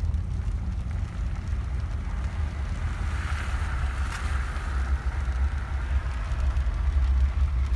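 Low, steady rumble of wind buffeting the microphone over a vehicle driving, with a hiss that swells and fades around the middle.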